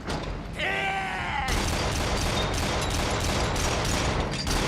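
A shout, then about one and a half seconds in, rapid anti-aircraft machine-gun fire starts, about four shots a second, over a dense din of battle.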